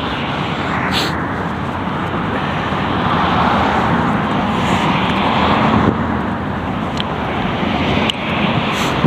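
Road traffic: a car passing, its engine and tyre noise swelling to a peak around the middle and then easing off, with a few brief clicks.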